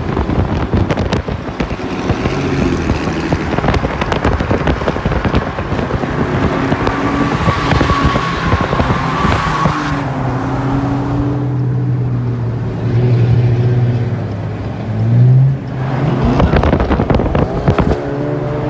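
A car engine running at changing revs over rushing road and wind noise, with the engine pitch sweeping sharply upward about fifteen seconds in, then dropping away.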